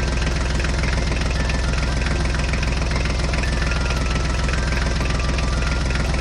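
Tractor engine sound from a toy tractor, a steady idling rumble that starts and stops abruptly, with faint stepping tones above it.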